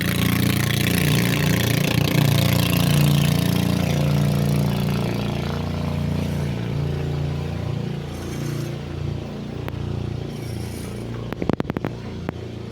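Boat engine running steadily, with a rushing noise over it that fades after about five seconds. A few sharp clicks come near the end.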